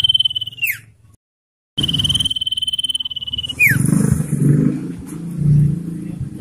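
Common iora singing its long trill, a fast run of pulses on one high whistled note that ends in a quick downward slur. It comes twice, with a brief break between, and is followed by low rumbling sounds.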